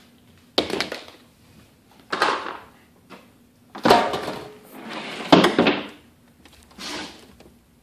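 Someone rummaging through a kitchen cupboard: about five bumps and rustles as items are moved, each starting sharply and dying away quickly.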